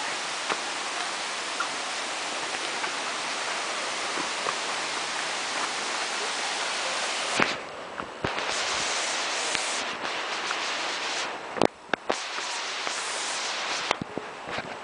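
Steady rush of flowing stream water. From about halfway on it is broken by several sharp knocks and rubbing noises, with the water sound briefly cutting out a few times.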